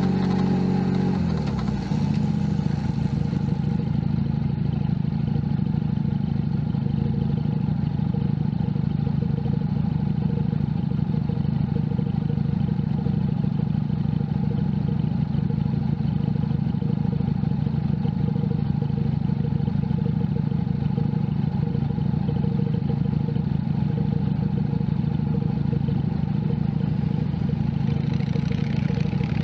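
Junak M11 Cafe's 125cc motorcycle engine: the revs drop about a second in as the bike slows, then it settles into a long steady idle.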